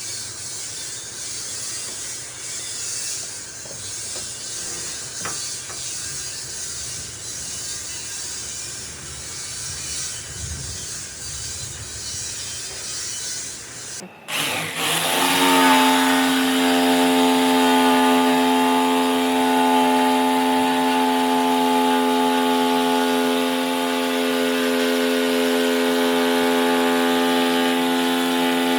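Rubbing and scraping on wood, like sanding or hand sawing. About halfway it cuts off abruptly, and a power tool motor runs at one steady pitch, louder than the scraping.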